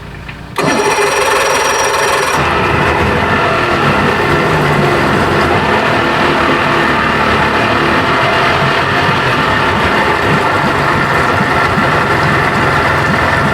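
A 1992 Johnson 60 hp two-stroke outboard catches about half a second in after being bumped with the starter, then runs steadily. A thin high whine sounds over it for the first couple of seconds.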